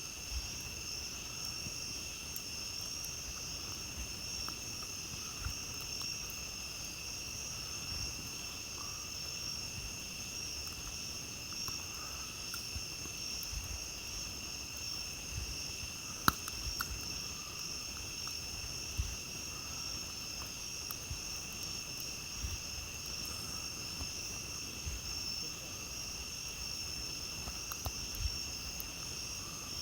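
Night insects trilling in a steady, unbroken chorus, with a campfire crackling under it in scattered sharp pops, one louder pop about sixteen seconds in.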